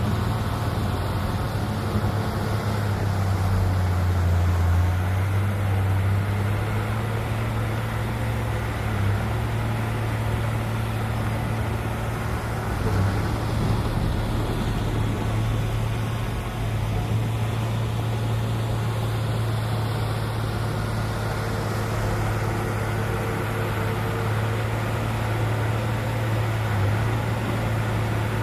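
Diesel engine of heavy earthmoving machinery running steadily under load, its note shifting lower for a few seconds near the start.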